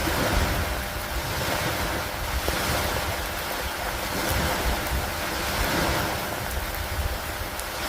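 Steady rain hissing over a constant low rumble, the hiss swelling and easing every two to three seconds like gusts of wind.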